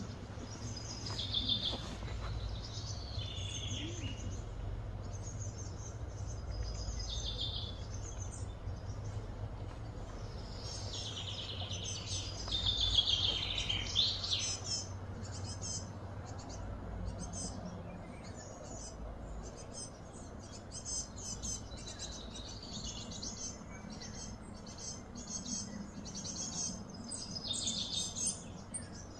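Birds chirping and calling in short repeated phrases, busiest about eleven to fourteen seconds in, over a steady low background rumble.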